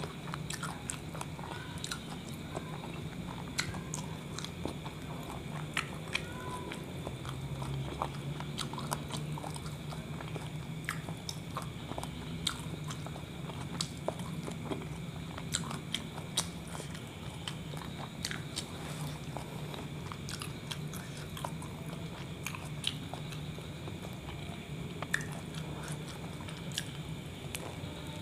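A person chewing a mouthful of kebab wrap, with many small wet clicks and smacks of the mouth, over a low steady hum.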